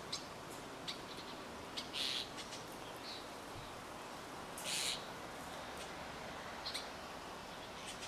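Blackbird-family birds calling: scattered short high chips, with two louder, harsher calls about two seconds and about five seconds in.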